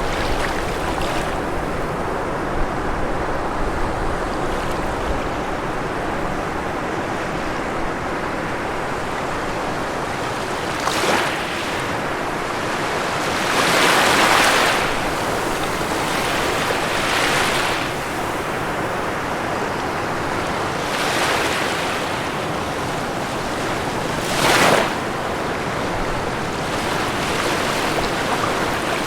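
Ocean waves washing onto a shore: a continuous hiss of surf, with several waves swelling louder and fading, the loudest about 14 and 25 seconds in.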